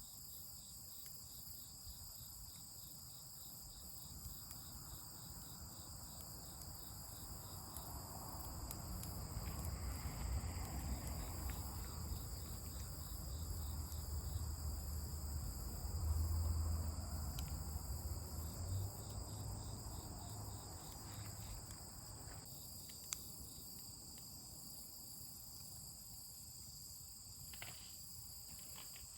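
Crickets and other insects chirping in a steady chorus. A low rumble swells up in the middle and dies away again, and there are a few faint clicks near the end.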